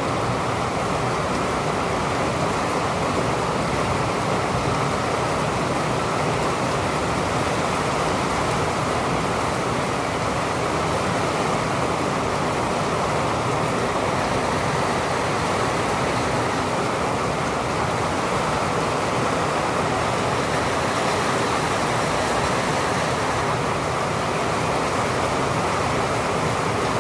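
Rain falling steadily, an even, unbroken rush with no thunderclaps.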